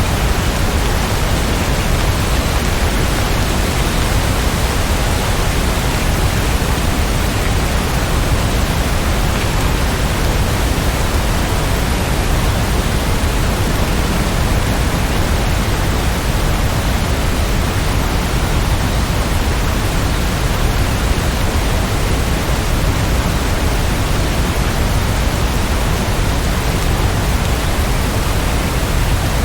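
Steady, dense rainfall making a continuous even hiss, with no separate drops or breaks standing out.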